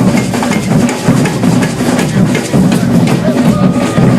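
Marching band drums beating in a procession, with bass drums and snare drums keeping a steady beat.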